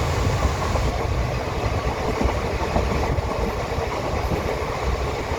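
Train running along the track: a steady rumble with continual irregular rattling.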